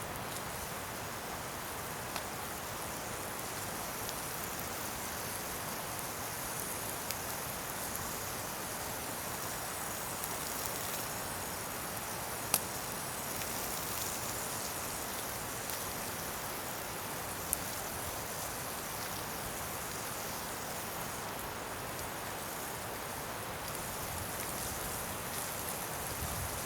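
Bonfire of scrap wood burning with a steady hiss and a few sharp pops, the loudest about halfway through.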